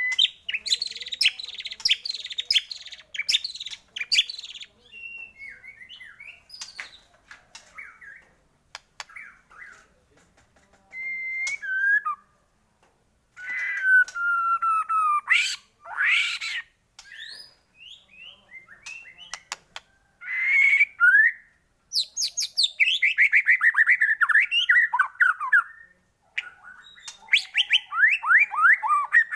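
White-rumped shama (murai batu) singing a varied song of clear whistles, fast trills and rapid runs of falling notes, in phrases broken by short pauses.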